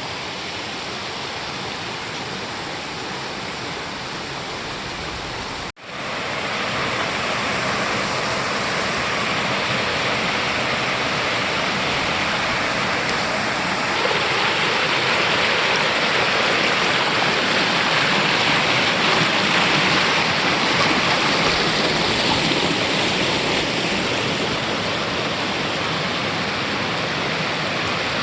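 Waterfall rushing into a creek: a steady, full-bodied rush of falling water. It cuts out for an instant about six seconds in and comes back louder.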